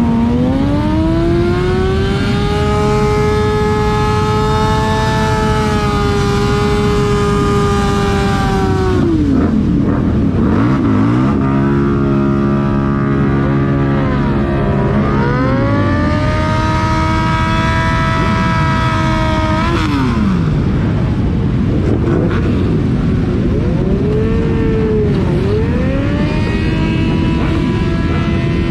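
Motorcycle engine revving up and held at high revs for several seconds, then dropping back, repeated about three times, with other motorcycle engines running underneath.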